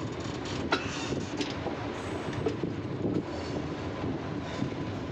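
Passenger train coaches running at speed, wheels rumbling and clattering over the rails, heard from an open coach doorway, with a sharp metallic clank less than a second in.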